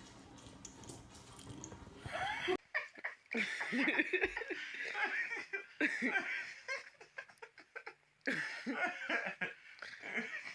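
A person laughing in short, choppy bursts, starting abruptly about two and a half seconds in, with a pause near the end before the laughter resumes.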